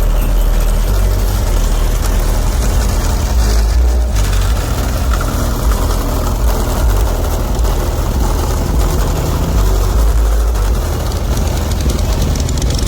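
Car engines running at low speed with a loud, steady, deep rumble.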